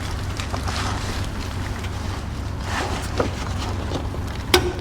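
Steady low hum with faint handling noises, and a sharp click a little before the end.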